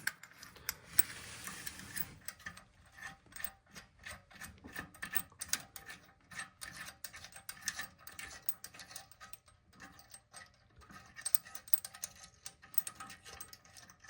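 Toilet tank bolt and nut being worked off: dense, irregular metallic clicking and scraping, with a longer rasping scrape in the first couple of seconds.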